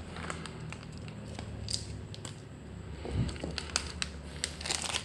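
Plastic snack packet crinkling and crackling as it is handled, with scattered sharp crackles.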